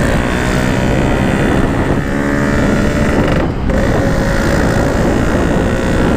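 Motorcycle engine running steadily while riding, under heavy wind rush on the microphone, dipping briefly about halfway through.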